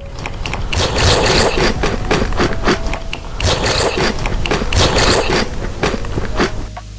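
Close-miked food handling and eating noises: dense crackling and scraping with many sharp clicks, in three loud spells.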